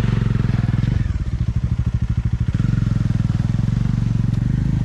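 Motorcycle engine running at low revs with steady, even firing pulses, dipping briefly about a second in.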